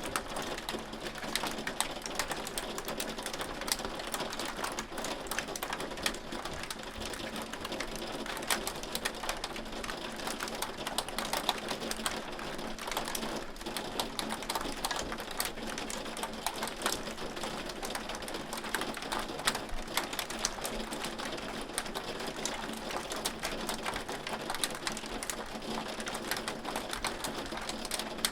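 Hailstones falling steadily: a dense, unbroken patter of sharp clicks as the stones strike.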